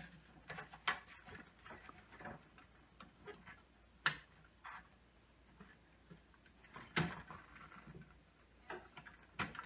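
Scattered light clicks and taps of a fluorescent light fixture's metal parts and ballast being handled and slipped into place, with sharper knocks about four and about seven seconds in.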